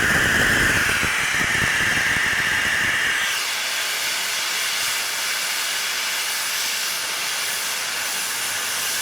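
Steam traction engine's pop (safety) valve blowing off, a loud steady hiss of steam that carries a shrill tone for about the first three seconds and then settles into a broad hiss. It is releasing excess steam pressure built up in the boiler.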